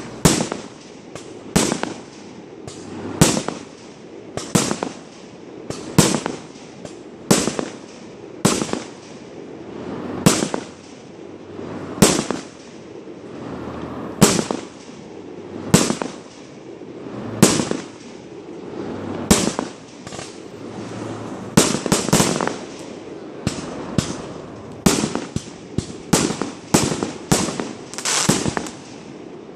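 Fireworks bursting in the sky one after another, a sharp bang about every second or so, each trailing off. The bangs come faster, close to two a second, for the last several seconds.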